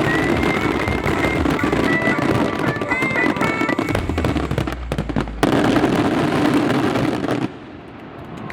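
Aerial fireworks going off: dense crackling and rapid bangs of shells and firecrackers, with a thick run of sharp reports about four to five seconds in, dropping away suddenly about a second before the end.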